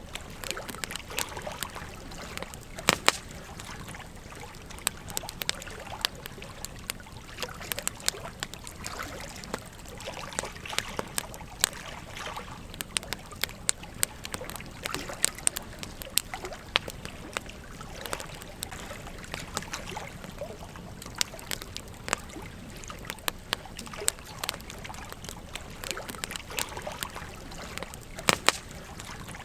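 Campfire crackling with irregular sharp pops, the loudest about three seconds in and near the end, over the steady trickle of a gentle stream.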